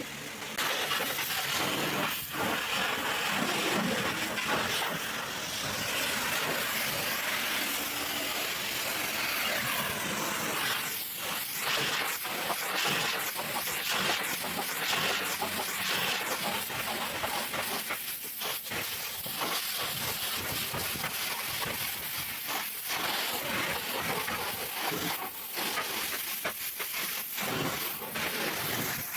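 High-pressure spray hissing steadily against a truck engine, broken by a few short pauses.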